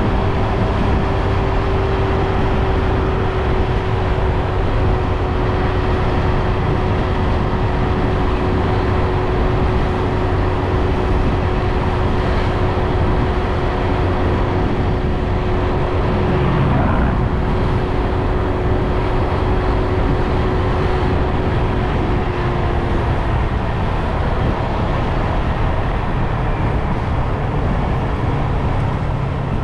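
Motorbike running steadily while being ridden, a continuous rumble with a steady hum that fades out about two-thirds of the way through.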